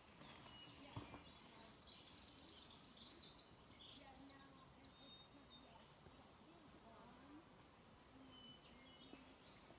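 Near silence in the forest, with small birds chirping faintly about two to four seconds in and a single faint knock about a second in.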